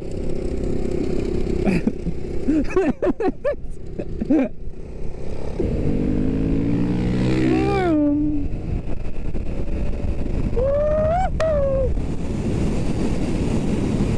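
Motorcycle engine running under way, with steady wind rush over the helmet microphone. The engine note rises about six to eight seconds in, and short rising-and-falling pitched sounds come near eight and eleven seconds.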